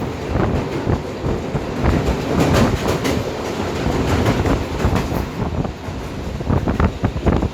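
Train moving along the track: a steady rumble of wheels on rail, with irregular clattering knocks.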